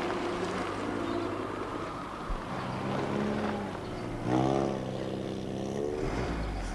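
A car engine running, its pitch rising about four seconds in as it picks up speed, then holding steady.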